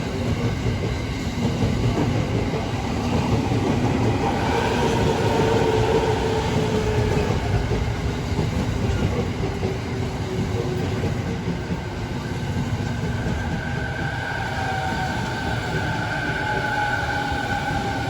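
Sobu Line electric train running past, its wheels clattering over the rail joints in a steady rumble. A whining tone falls in pitch about five seconds in, and a higher whine comes in near the end.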